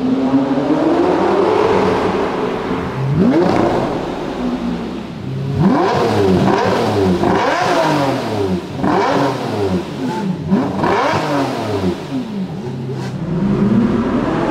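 Lamborghini Murciélago V12 accelerating in one long rising pull, then revved in a string of quick blips, each rising and falling in pitch. Near the end another car's engine starts climbing in revs.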